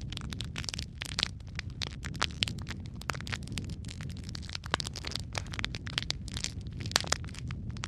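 Wood fire crackling and popping in a fireplace: irregular sharp snaps several times a second over a steady low rumble of the flames.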